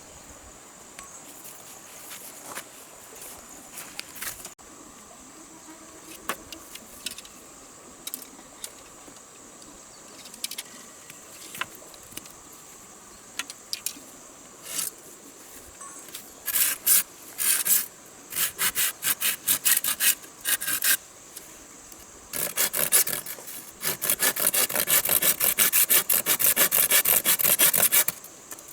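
Hand saw cutting wood. There are scattered light knocks and scrapes at first, then from about halfway short runs of quick back-and-forth strokes, becoming a fast continuous run of sawing near the end.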